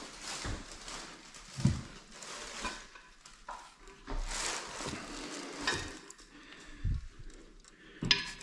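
Toilet tank bolts, washers and nuts being handled: irregular rustling with a few light knocks and clinks of small parts.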